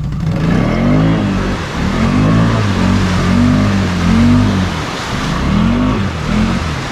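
Can-Am Outlander ATV's V-twin engine revving up and down about six times in quick bursts as it is throttled hard through thick mud.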